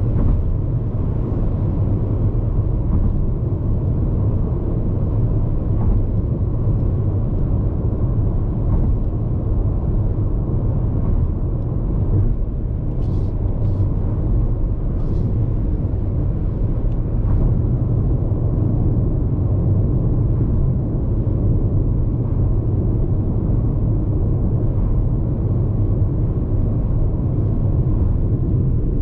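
Road noise inside the cabin of a Hyundai IONIQ 5 Lounge AWD electric car cruising on an expressway: a steady low rumble from the tyres and road, with no engine sound.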